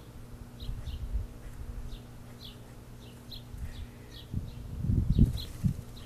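Small birds chirping: short, high, slightly falling notes, repeated every half second or so. A steady low hum runs underneath, and a low rumble swells up in bursts in the last couple of seconds.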